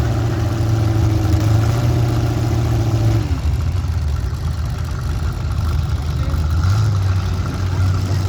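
Demolition derby car engines running, one loud engine note steady for about three seconds, then dropping off and picking up again about a second and a half before the end.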